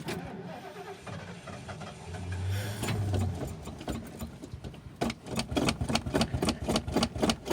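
Stalled mid-1980s Ford motorhome engine being cranked by its starter without catching. The cranking stops near the start, a brief low hum comes about two to three seconds in, and the cranking resumes about five seconds in with an even chug of about four beats a second.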